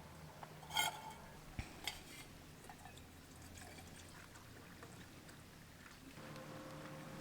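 A few faint clicks and knocks, then a steady low hum starts about six seconds in.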